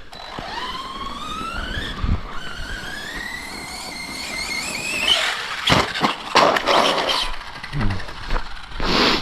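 Brushless electric motor of an Arrma Outcast 4S RC truck whining and rising steadily in pitch for about five seconds, then a clatter of hard knocks as the truck crashes and tumbles.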